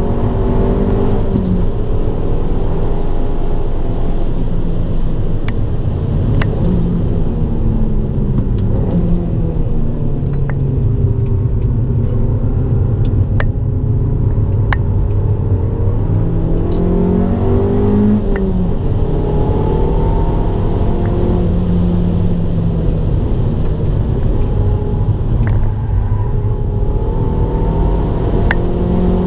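Abarth 595 Turismo's 1.4-litre turbocharged four-cylinder engine under hard driving on track, its note rising and falling repeatedly as it accelerates and lifts off for corners.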